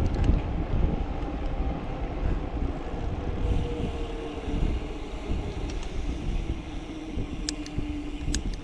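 Wind buffeting the microphone and tyre rumble from a bicycle being ridden, with a faint steady hum and a few light ticks near the end.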